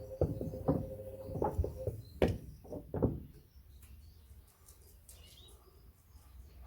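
Pieces of wood knocking inside the tumbling drum of a Hoover washing machine on its wash cycle, over the motor's steady hum. About three seconds in, the drum stops and the knocking and hum cease.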